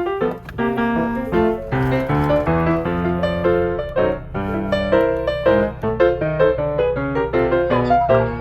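Background music: piano playing a quick run of notes.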